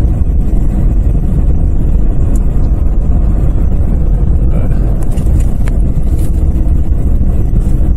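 Steady road and engine rumble of a vehicle driving on a snow-covered highway, heard from inside the cabin through a cell phone's microphone, with a few faint clicks about five seconds in.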